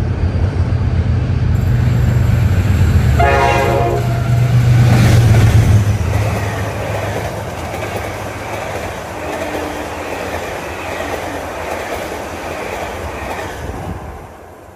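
General Electric diesel locomotive hauling a passenger train through a station at full speed: the engine's deep rumble builds as it approaches and passes, with a horn blast of about a second some three seconds in. Then the coaches rush past with wheels clacking over the rail joints, and the sound drops away sharply near the end.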